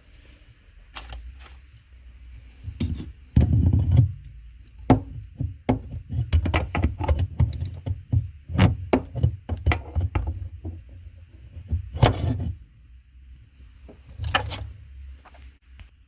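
Clinks, knocks and clatter of plumbing fittings being handled as a faucet supply line is disconnected from a cold-water shut-off valve, with low rumbling handling noise throughout.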